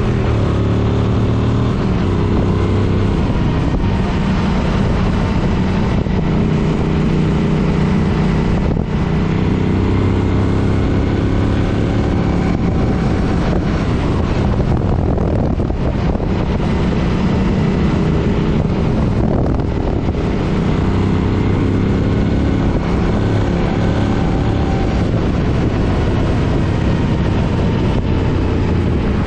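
Suzuki Boulevard M50's 805 cc V-twin engine running under way, its pitch drifting gently up and down with the throttle, with wind rushing over the microphone.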